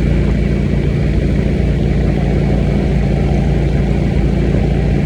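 Motorcycle engine running steadily while riding, its pitch holding level with no revving or gear change.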